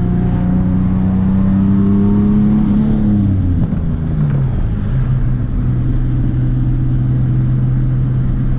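Turbocharged Nissan 370Z's 3.7-litre V6 pulling under throttle with the turbo whistle rising in pitch. About three seconds in the throttle closes: the whistle falls away and the engine note drops to a lower steady running note.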